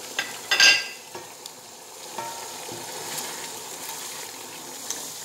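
Chicken pieces and spices sizzling in hot oil in a pan while a wooden spoon stirs them: the bhuna stage of frying cumin and crushed red chilli with the chicken. A steady sizzle, with a brief louder burst less than a second in.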